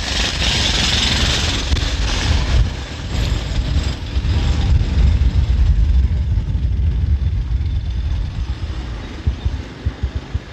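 Motor vehicle running, with a steady low rumble and a hissing noise that fades after the first few seconds.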